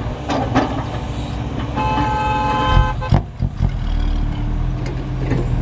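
Diesel truck engine running steadily, with a vehicle horn sounding once for about a second near the middle, followed by a sharp knock.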